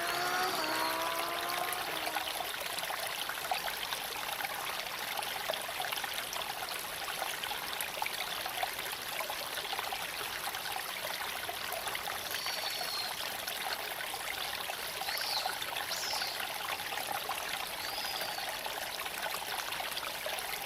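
Steady hiss of tyre and road noise from a Tesla Cybertruck being driven, with the electric drive motor's whine rising in pitch and fading out about two seconds in.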